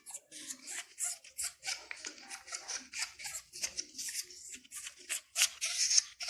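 A parrot making a rapid run of short, raspy clicks, about four or five a second.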